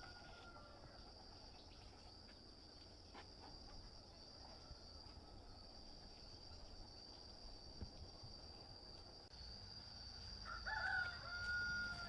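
A rooster crowing once near the end, a call that rises and then holds a long tone, with the tail of another crow just at the start. A steady high insect buzz runs underneath.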